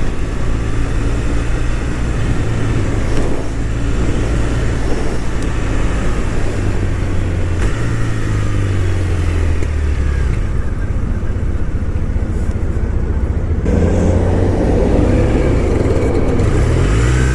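Motorcycle running along the road with a steady low engine drone and road and wind hiss over it. The engine pitch glides up and down a few times. The upper hiss drops away for a few seconds past the middle.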